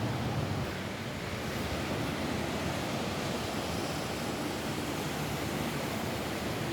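Rain falling on a roof: a steady, even wash of noise with no change in level.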